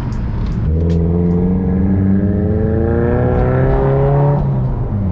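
Car engine accelerating: its note climbs steadily in pitch for about three and a half seconds, then drops off suddenly near the end.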